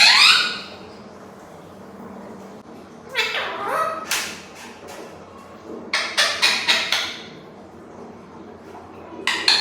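Parrot calling: short, harsh calls with a pitch that dips and then rises, repeated about every three seconds.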